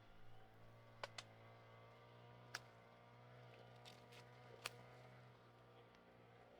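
A handful of sharp clicks or snaps, two close together about a second in and single ones later, over a faint steady hum.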